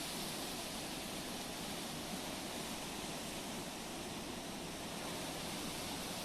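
Sea waves and surf making a steady, unbroken wash.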